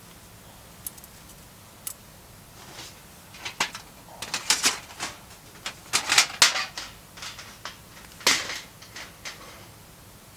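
Irregular clicks, clacks and rustles of objects being handled, sparse at first, then a busy cluster in the middle and one last loud clack near the end.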